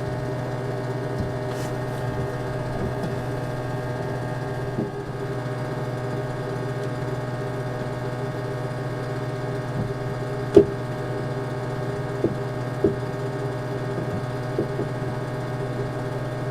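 An engine running steadily at idle, a constant low hum. A sharp click comes about ten and a half seconds in, and a couple of lighter clicks follow a few seconds later.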